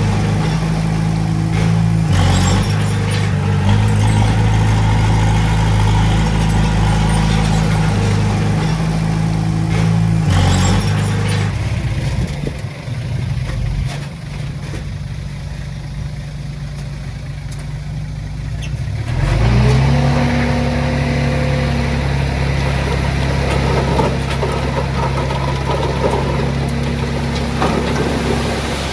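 Diesel engine of heavy earthmoving equipment running hard, with a few knocks early on. About twelve seconds in it drops to a lower, quieter run, then revs back up about seven seconds later and runs steadily again.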